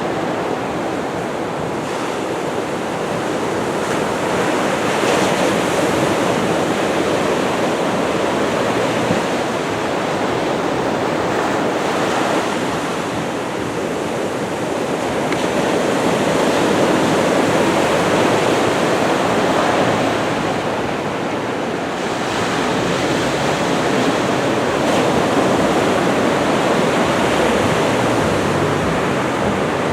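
Ocean surf from a typhoon swell: waves breaking and washing onto the shore in a continuous rush of noise that swells and eases every few seconds.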